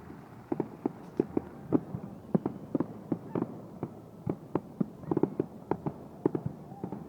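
Fireworks exploding in a rapid, irregular series of sharp bangs, about three a second, starting about half a second in.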